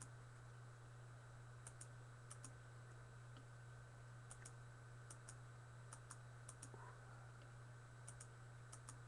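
Faint computer mouse clicks, mostly in quick pairs, about nine pairs spread irregularly, over a steady low electrical hum.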